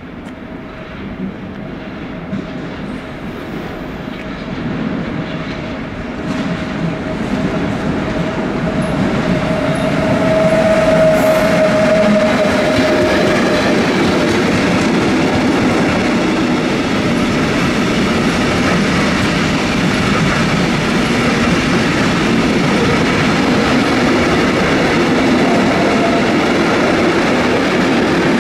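A train approaching and running past on the rails. It grows louder over about ten seconds to a steady rolling rumble with rail clatter. A thin steady whine peaks and then fades out about halfway through.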